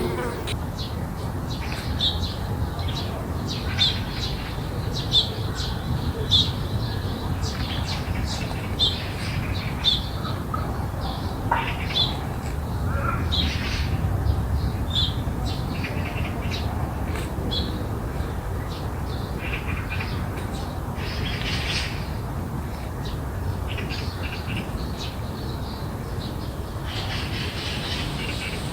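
Garden birds calling: a short, high call repeated about once a second through the first half, with scattered other calls later, over a steady low background rumble.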